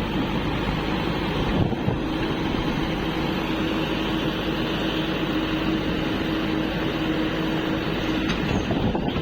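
Diesel engine running steadily at close range, with a steady hum through most of it that stops shortly before the end.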